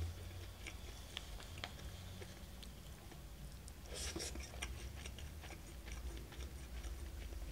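A person chewing a mouthful of tempura and rice: faint mouth clicks, with a short louder noise about four seconds in, over a low steady hum.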